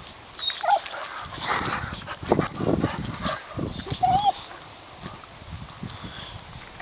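Boxer dog whining in short high-pitched whines, about a second in and again around four seconds in, with louder rough short noises in between.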